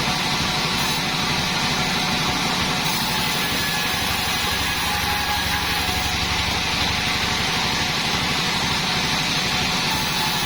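Engine of a homemade band sawmill running steadily, with a rapid, even low pulsing.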